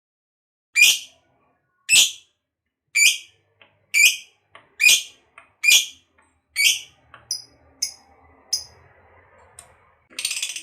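Lovebird giving a run of sharp, shrill single calls about once a second, growing smaller after about seven seconds. Near the end it breaks into dense, rapid chattering, the start of the long 'ngekek' chatter.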